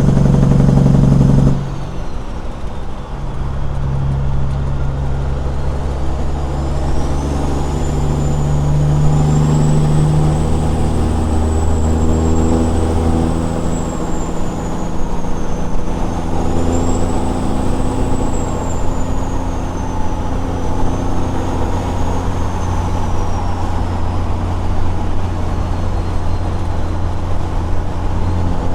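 Straight-piped CAT 6NZ diesel in a Peterbilt 379 running under load. The exhaust note drops sharply about a second and a half in, then the engine pulls again, its pitch rising and falling through gear changes, with a high whistle rising and falling over it.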